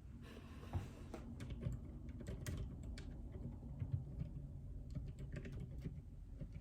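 Typing on a JJK84 mechanical keyboard with Outemu Silent Peach linear switches: a steady, irregular run of keystrokes.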